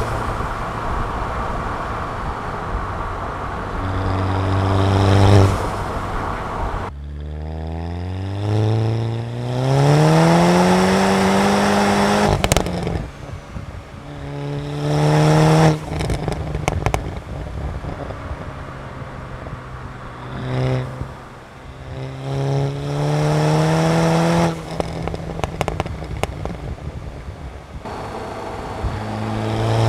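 Stage 2 tuned Volkswagen Golf MK6 GTI's turbocharged 2.0-litre four-cylinder accelerating hard in several pulls, each rising in pitch and then dropping at the shift or lift-off. There are sharp cracks from the exhaust when the throttle closes.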